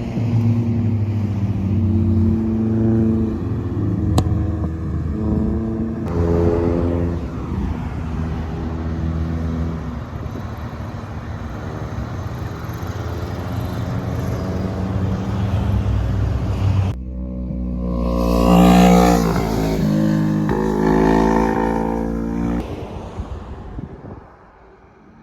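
Motor vehicle engines running with a low steady hum, then an engine revved up and down in the last third, the loudest moment, before the sound fades out near the end.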